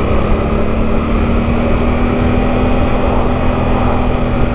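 Motorcycle engine running steadily under way, one held engine tone over a dense rumble of wind and road noise.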